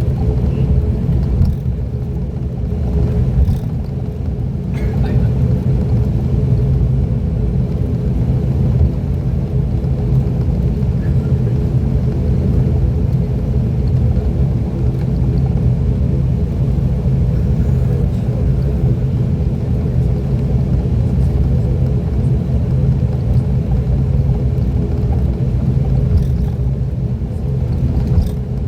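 ATR 42-600's twin Pratt & Whitney PW127 turboprop engines and propellers running steadily, heard inside the cabin as a deep rumble with a constant low hum.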